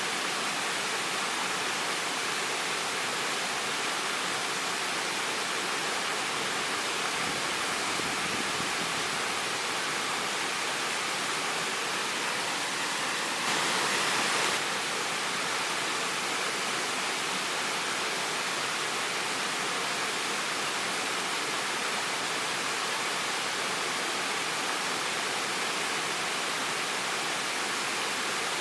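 Waterfall water rushing in a steady, even hiss, with a brief louder surge lasting about a second roughly halfway through.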